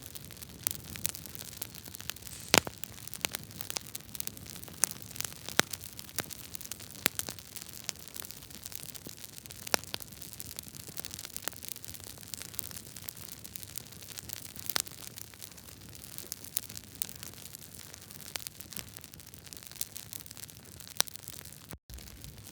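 Wood fire burning in a fireplace: a steady hiss with frequent, irregular sharp pops and snaps from the burning logs, a few louder than the rest. The sound cuts out for a split second near the end.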